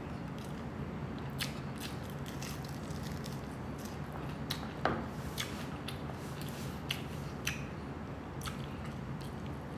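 Close-up mouth sounds of chewing crispy fried pork belly (lechon kawali): wet chewing with scattered crisp crackles and clicks, a sharper crunch about five seconds in, over a steady low hum.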